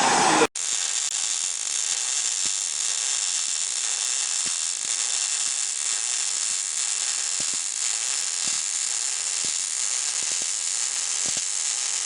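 Welding equipment running: a steady hissing sizzle with scattered faint crackling clicks, after a short loud burst at the very start.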